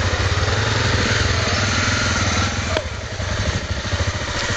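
Honda XR250 Tornado's single-cylinder four-stroke engine running steadily, with a brief dip in level about three seconds in.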